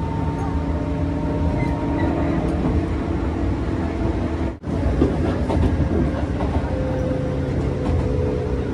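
Interior running noise of a JR West 201 series commuter train under way: a steady rumble of wheels on rail with a few steady whining tones over it. The sound drops out briefly a little past halfway.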